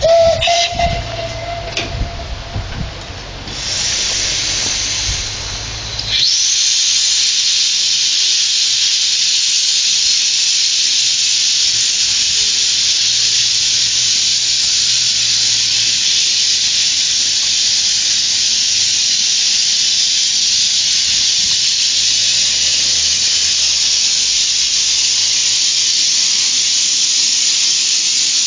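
Steam locomotive venting steam: a softer hiss starts about three and a half seconds in, then a loud, steady hiss sets in about six seconds in and holds. A few knocks and a brief tone come before it.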